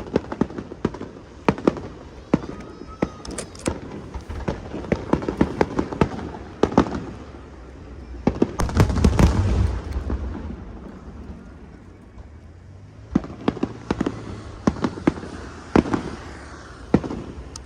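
Aerial fireworks display: shells bursting in many sharp bangs and crackles, with a dense, louder flurry of bursts about nine seconds in.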